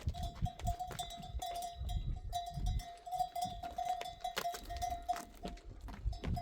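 Livestock bell clanking over and over as a flock of sheep and goats moves. Its ringing tone is held almost without a break, with many sharp clacks and some low thumps underneath.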